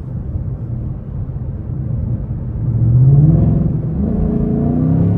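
2024 Mustang GT's 5.0-litre V8, breathing through high-flow air filters with the carbon traps removed, heard from inside the cabin under acceleration. It runs steadily at first, revs climb about halfway through, then the revs drop and climb again near the end as it pulls through the next gear.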